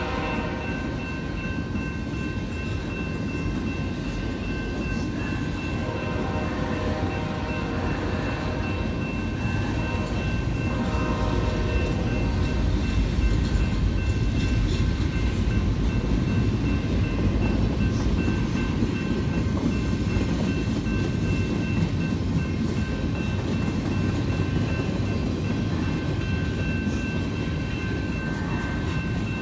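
Empty intermodal freight cars rolling past a grade crossing: a steady rumble and clatter of wheels on rail, a little louder about midway. The crossing bell rings throughout with a thin steady ring, and the locomotive horn trails off about a second in.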